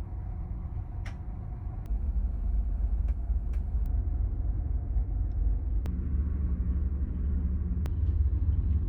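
Low, steady rumble of the ferry Naminoue under way, its engines and hull vibrating, growing louder about two seconds in, with a few light clicks.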